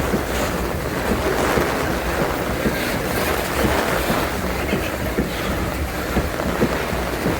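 Strong storm wind buffeting the microphone over the steady rumble of a loaded freight train rolling past, with scattered faint clicks from the wheels.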